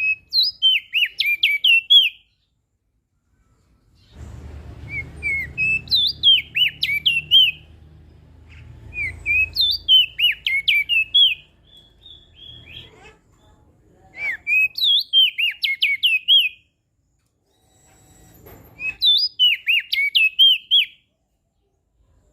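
Opior jambul (crested white-eye) singing: five short phrases of quick, sweet, twittering notes, each about two to three seconds long, with pauses of about two seconds between them.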